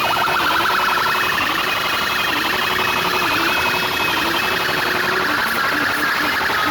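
A car sound system's speaker wall blasting a siren-like alarm sound: a loud, fast-warbling high tone with a lower tone wavering up and down beneath it.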